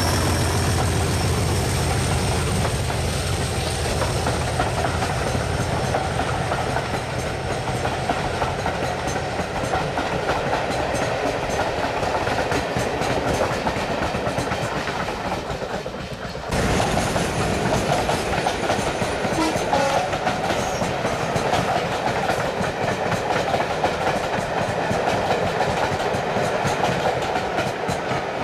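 Preserved diesel locomotive and train passing, engine running with wheels clattering over rail joints. The sound breaks off abruptly about sixteen seconds in and picks up again louder with more rail clatter.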